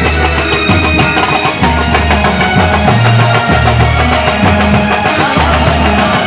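Banjo-party band music: a banjo melody over heavy, steady drumming.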